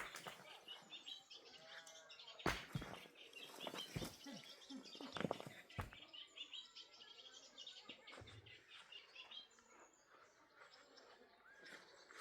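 Small birds chirping steadily, the chirps thinning out after about nine seconds, with a few sharp knocks in the first half.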